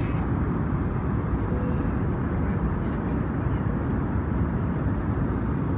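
Steady cabin noise of an Airbus A321 airliner in descent: the even rumble of engines and airflow, strongest in the low range, with a faint thin high tone held over it.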